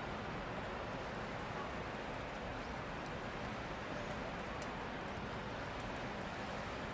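Steady rain falling, an even hiss with a few faint drip ticks scattered through it.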